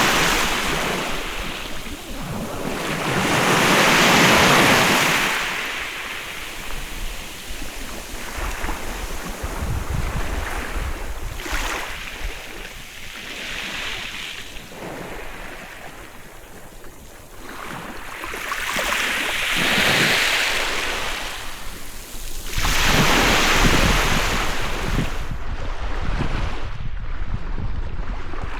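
Sea waves breaking and washing up the beach, surging and fading every few seconds, with the biggest breakers about four seconds in and around twenty seconds in.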